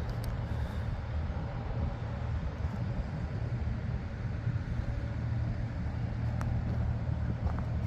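New Holland C232 compact track loader's diesel engine running steadily with a low, even hum.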